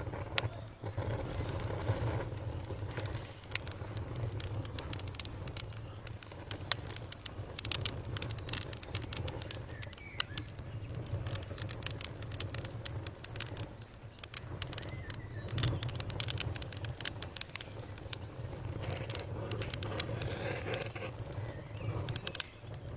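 Wood fire crackling: many sharp, irregular pops, thickest about eight to ten seconds in, over a low steady rumble.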